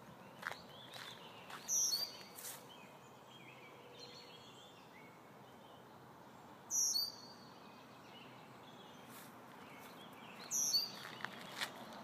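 A songbird repeats the same short, high-pitched song three times, about five seconds apart, over a steady outdoor background. Fainter bird chirps sound between the songs, and there are a few light clicks.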